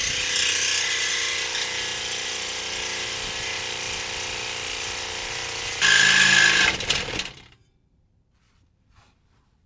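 Power saw running and cutting through the steel exhaust pipe to take off a Chevy Equinox's broken muffler. It gets louder and shriller for about a second near the middle, then stops, leaving quiet with a couple of faint clicks.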